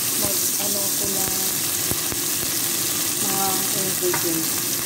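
Onions, garlic and tomato sautéing in hot oil in a stainless steel pot: a steady sizzle, with a few light clicks of a utensil against the pot as it is stirred.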